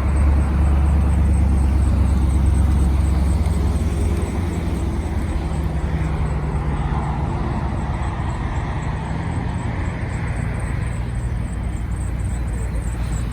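Car engine running with a deep, steady low rumble that drops in level about four seconds in.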